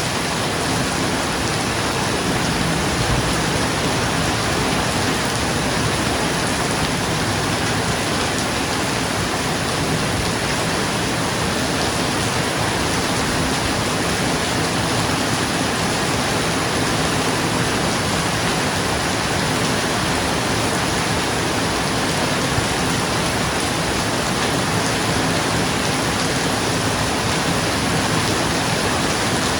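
Steady rain falling on a roof: an even, unbroken hiss of dense drops, with no thunder rolls.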